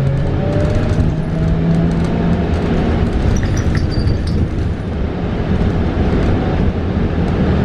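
Interior of a 2022 New Flyer XE40 battery-electric bus in motion: steady road and tyre rumble with small rattles. A faint rising electric motor whine fades out about a second in.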